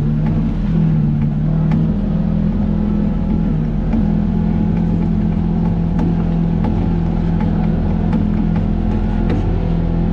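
Vehicle engine running at a steady speed while driving, with scattered light clicks and rattles.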